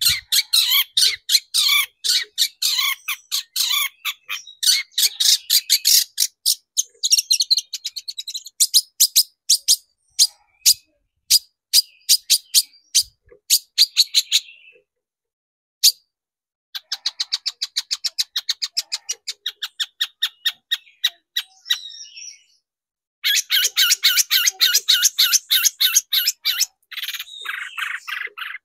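Long-tailed shrike (cendet) singing in long runs of rapid, sharp repeated notes. The runs break off for about two seconds some fifteen seconds in, and again briefly just after twenty-two seconds.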